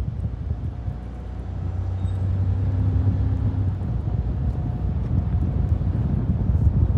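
Vehicle running with a loud, uneven low rumble and a steady engine drone, growing louder about a second and a half in.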